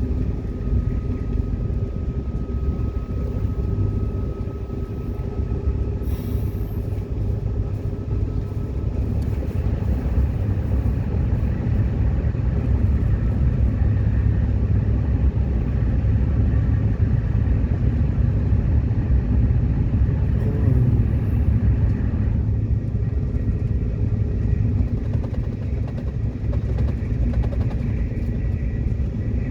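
Subway train running on the rails: a steady low rumble of wheels and running gear with a faint steady whine over it.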